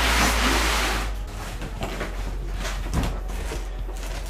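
Packaging and parts being moved about: a scraping, rustling slide that is loudest in the first second and a half, then a few light knocks.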